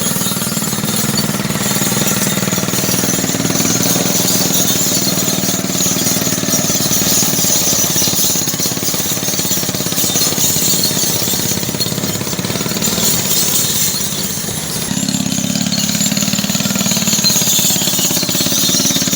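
Khan Tractor 385 mini tractor's engine running with a rapid, even clatter. About fifteen seconds in, its low note grows stronger.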